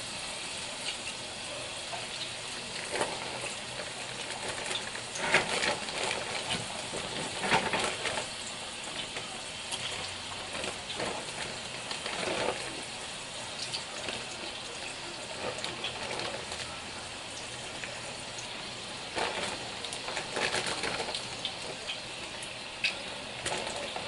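Battered trout pieces deep-frying in a skillet of hot oil: a steady bubbling sizzle with scattered crackles and pops.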